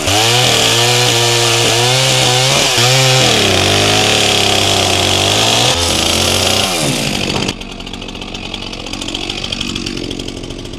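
Stihl MS400C two-stroke chainsaw running at full throttle while cutting a log into a firewood round, its pitch wavering and sagging as the chain loads in the cut. About seven and a half seconds in it backs off and runs much quieter.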